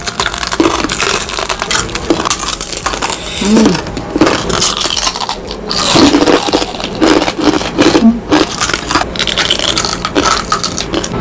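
Loud, close-miked crunching and chewing of crispy fried food such as pork crackling, bite after bite in mukbang style.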